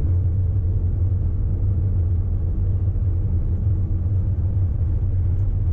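Heavy truck driving along, its engine and road noise making a steady low rumble heard from inside the cab.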